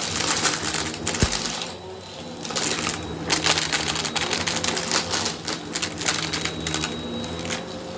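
Bissell vacuum cleaner running over a shag rug, its motor humming steadily while crunchy debris rattles and crackles up through it in dense, irregular bursts.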